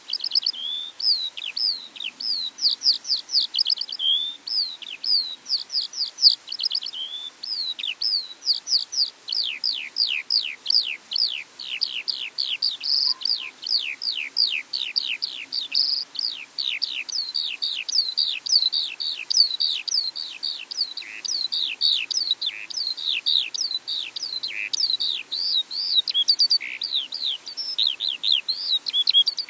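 Small songbirds chirping without a break: a dense run of short, high, quickly falling chirps, several a second.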